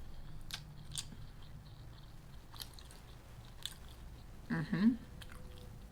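A person chewing lo mein noodles close to the microphone, with scattered wet mouth clicks and a short hummed murmur near the end.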